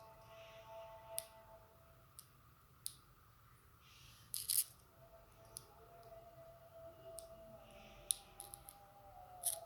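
Irregular sharp clicks and cracks of hand tools working on the plastic casing of an Apple 85 W MagSafe 2 charger while it is being opened, with the loudest cluster about four and a half seconds in and another near the end.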